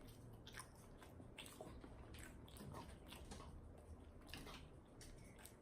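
Faint chewing of a fried chicken nugget, with soft wet mouth clicks and smacks scattered throughout.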